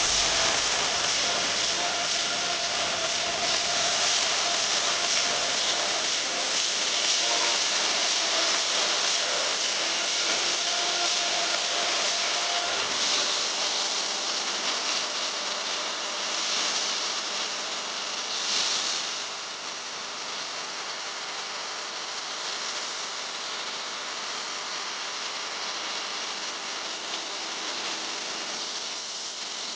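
Steady, loud hiss with no rhythm, easing slightly about two-thirds of the way through.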